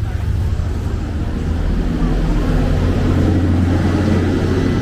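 A motor engine running close by, a low steady hum that grows louder about two seconds in.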